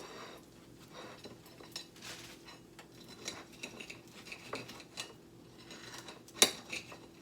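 Kitchen utensils and dishes clinking and knocking lightly as food is handled, with a short scrape about two seconds in and one sharp clack near the end.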